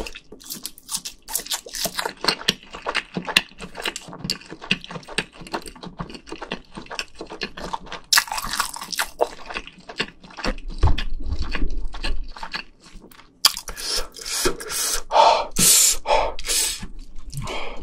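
Close-miked chewing and wet mouth sounds of someone eating, with many small smacking clicks, and louder, denser eating noises around halfway and near the end.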